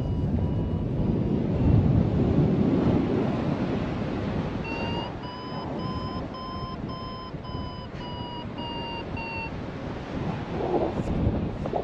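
Strong wind buffeting the microphone, with a paragliding variometer beeping in short, rapid tones. From about five seconds in the beeps come through clearly, rising a little in pitch and then falling back. The vario sounds beeps like these when the glider is climbing in lift, and their pitch follows the rate of climb.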